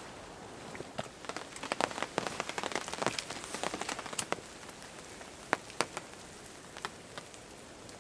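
Rain drips pattering as scattered sharp taps: a dense spell for a couple of seconds after the start, then sparser single drips, over a faint steady hiss.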